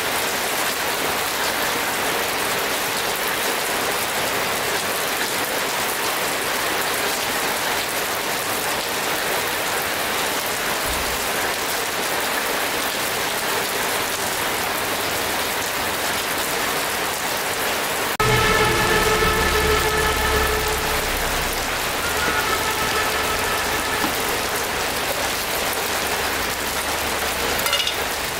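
Steady rain falling on a surface. About two-thirds of the way through, a pitched mechanical hum with a low rumble starts suddenly and holds for about three seconds, then returns briefly.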